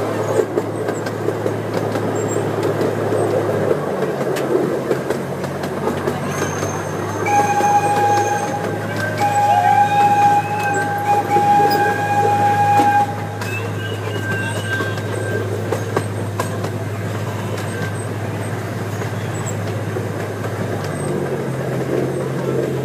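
Train running steadily, a continuous low rumble and hum heard from aboard. Near the middle, a steady high tone rises over it for about six seconds with one short break.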